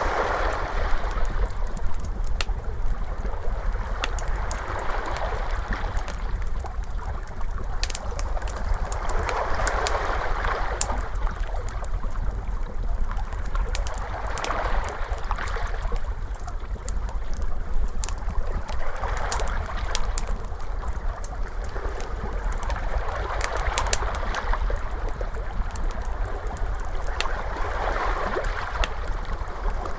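Ocean waves washing in and out, swelling about every four to five seconds, mixed with the sharp pops and snaps of a crackling fire, over a steady low rumble.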